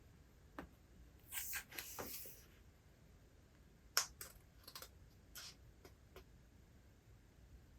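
A short paper rustle, like a book page being turned, then a quick run of light clicks and taps, the sharpest about halfway through.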